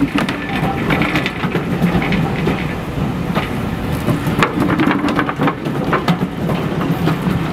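Railway passenger coaches rolling past at close range: a steady rumble of wheels on the track with irregular clicks and clanks.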